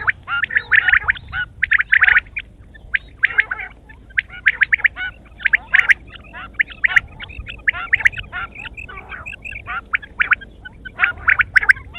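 Quail calling in quick runs of short, chattering notes that keep going without a break, with a brief lull about three seconds in.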